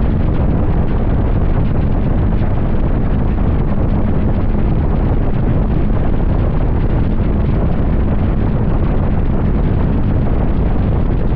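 Steady, loud wind rushing and buffeting over the microphone of a motorcycle riding at highway speed, low and dense, with no breaks.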